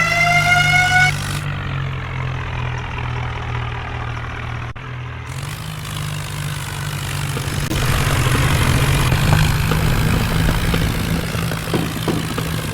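Heavy diesel engine running at a steady idle. A rising whine ends about a second in, and the engine noise grows thicker and louder from about eight seconds on.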